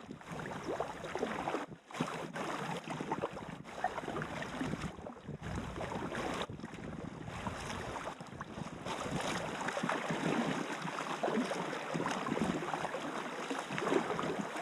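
Steady water noise around a packraft moving down a river, with wind on the microphone.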